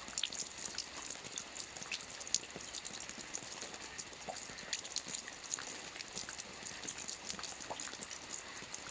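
Steady rain falling, with many separate drops ticking sharply and irregularly on a surface over an even hiss.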